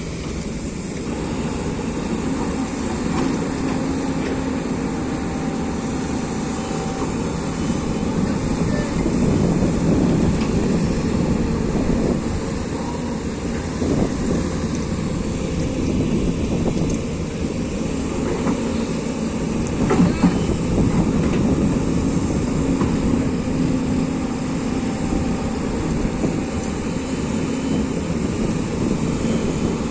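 Excavator diesel engine running steadily under load, with a few sharp knocks, about fourteen and twenty seconds in.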